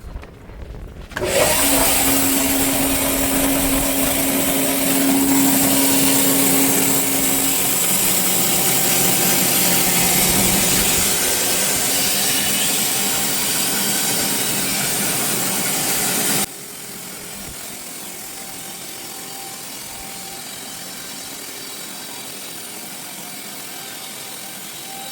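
Band sawmill running and sawing through a log, a loud steady mechanical noise with a low hum that drops in pitch about seven seconds in. About sixteen seconds in it falls abruptly to a quieter steady running.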